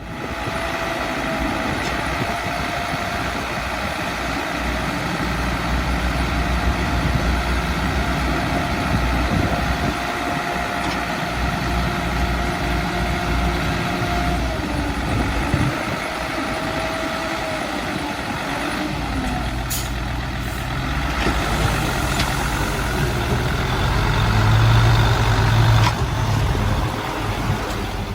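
Heavy diesel earthmoving machinery running steadily, with a held whining tone through the first half and the engine note building louder about three-quarters of the way in.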